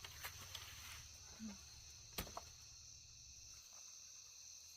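Faint, steady chirring of insects such as crickets, with a few light clicks and one sharp knock about two seconds in.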